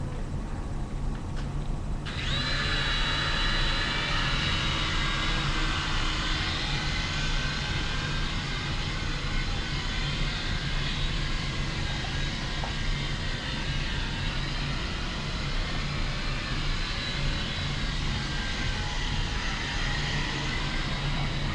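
Small electric motors of a toy remote-control helicopter start about two seconds in and run with a steady high whine and rotor whir, the pitch wavering slightly.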